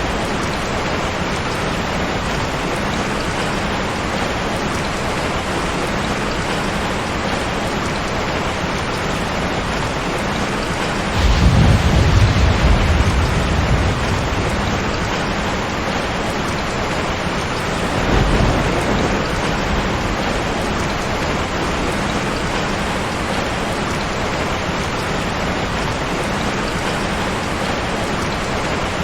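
Steady heavy rain with thunder: a loud low rumble breaks in suddenly about a third of the way through and lasts a few seconds, and a weaker rumble follows several seconds later.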